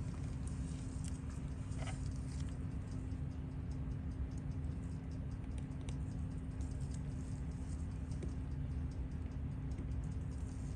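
Small irregular clicks and light taps of metal watchmaker's tools on a Seiko 6138 chronograph movement during disassembly, over a steady low hum.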